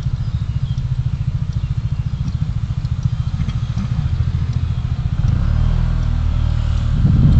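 A motor vehicle running: low, rapidly pulsing engine and road noise. About five seconds in it settles into a steadier hum, and it grows louder near the end.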